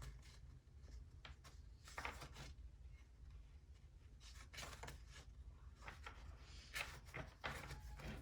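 Faint rustles and a few light taps of tarot cards being handled, over a low steady room hum.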